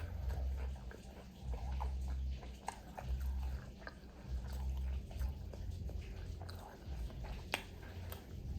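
Close-miked chewing of fried food, lumpia-wrapped chicken wingettes and fries, in a slow steady rhythm of jaw strokes, with one sharp click near the end.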